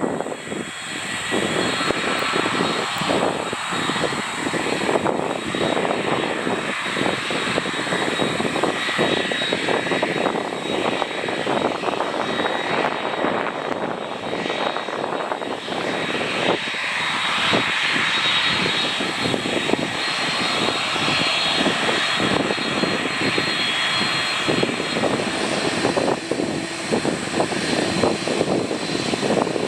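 Airbus A330-300 jet engines at take-off power: a loud, continuous rushing noise with a thin, steady high whine, swelling a little about two-thirds of the way through.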